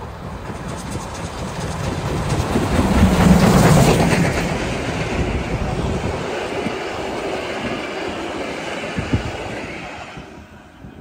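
A train passing close by: the rumble swells to its loudest about three to four seconds in, then slowly fades away, with the wheels clicking over the rail joints as it approaches.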